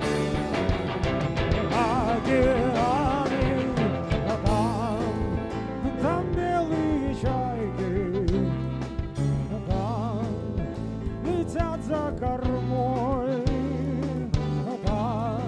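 Live rock band playing an instrumental passage: a melody line with wide vibrato over held bass notes and drums.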